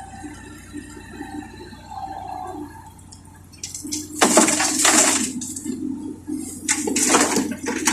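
Two loud rushing pours, likely wet soil tipped from the Komatsu PC70-8 excavator's bucket into a dump truck's bed, about four and seven seconds in. The excavator's engine hums steadily underneath.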